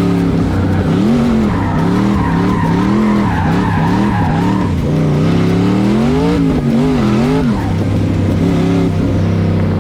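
LS-swapped BMW E36's 5.3-litre V8 revving up and down repeatedly, its pitch rising and falling about once a second as it is driven hard around an autocross course, with tires squealing and sliding through the first half.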